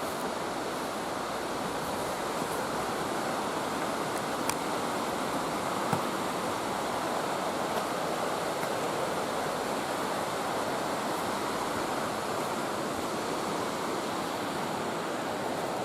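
Waterfall rushing steadily. There are two faint ticks about four and a half and six seconds in.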